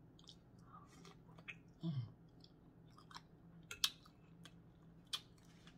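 A person chewing and smacking while eating, with scattered small mouth clicks and a short low hum falling in pitch about two seconds in.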